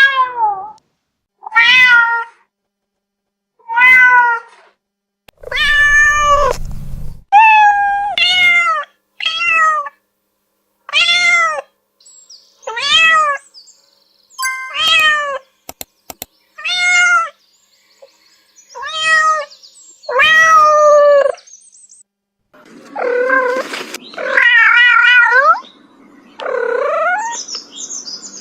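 Cats meowing, about fifteen separate meows one after another with short silences between them. Near the end the calls turn longer and wavering, like yowls.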